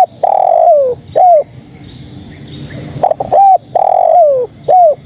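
Spotted dove cooing: two phrases about three seconds apart, each a few short notes around a longer coo that slides down at its end, closed by a short arched note. It is the call the uploader presents as a female calling males.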